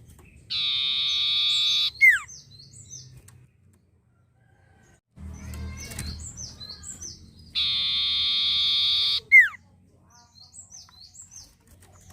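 Common iora (sirtu) singing. Twice it gives a long, even, buzzy trill of about a second and a half that ends in a sharp falling note, with short high chirps repeated in between.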